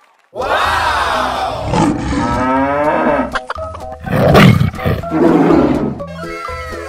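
Cartoon animal sound effects over children's background music: a long animal call sliding in pitch starts about a third of a second in, then a tiger roar about four seconds in, the loudest part.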